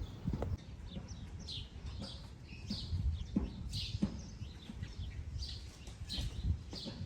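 Birds chirping repeatedly in short high calls, over a low rumble with a few scattered knocks.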